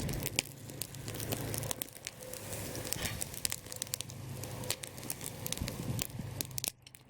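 Wood fire crackling, with irregular sharp pops and snaps over a light hiss, and a steady low hum underneath.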